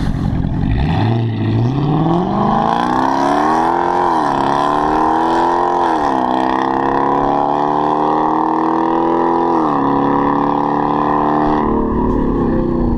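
A car's engine accelerating hard, its pitch climbing and dropping at two upshifts about four and six seconds in, then climbing again before the driver eases off and the sound fades away near the end.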